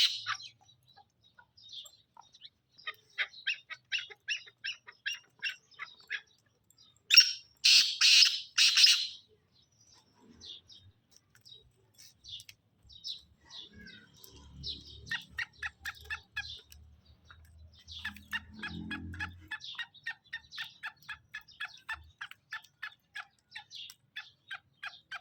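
Black francolin calling: long runs of short, quick clicking notes, several a second, broken about seven seconds in by a loud, harsh call of three rasping notes.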